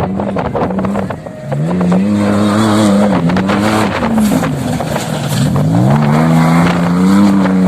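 Off-road vehicle engine revving up and down as it is ridden: the pitch climbs about a second and a half in, wavers, dips low in the middle and climbs again near the end.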